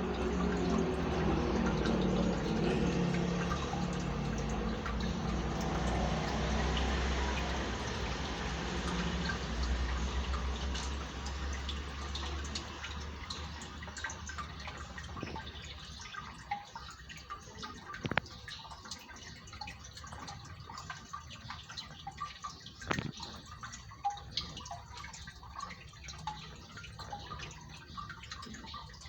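Aquarium water trickling and dripping over a low hum, louder for the first dozen seconds, then quieter with scattered small clicks and a couple of sharper ticks.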